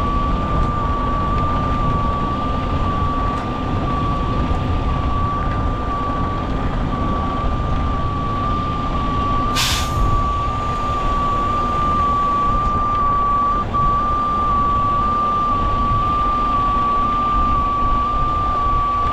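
Heavy diesel truck engines running under load during a rotator wrecker recovery, with a truck's backup alarm sounding over them. A short, sharp burst of air about halfway through, typical of an air brake release.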